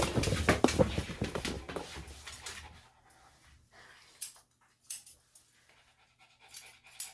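Small Bichon/Shih Tzu cross dog panting, heaviest for the first few seconds and then fading. A few sharp clicks follow in the quieter second half.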